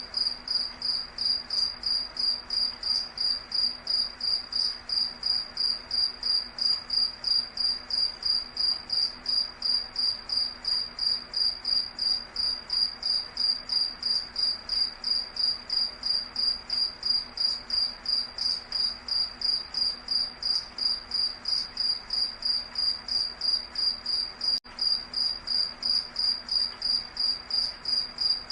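Night insect chirping steadily in a forest: one high-pitched, even pulse repeated about three times a second.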